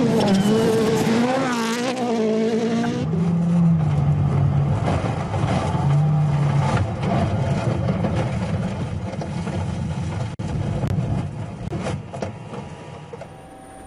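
Rally car engine revving hard, its pitch rising and falling with the throttle. About three seconds in it changes abruptly to a rally car heard with a lower engine note under a dense rush of noise, which fades near the end.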